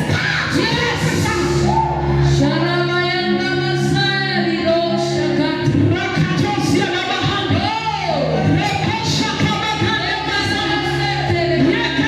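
Worship music in a church: voices singing over instrumental accompaniment with steady held bass notes.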